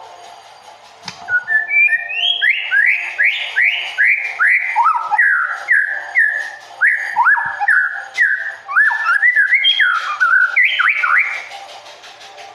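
White-rumped shama singing a long run of loud, quick whistled notes that slur up and down, starting about a second in and stopping shortly before the end.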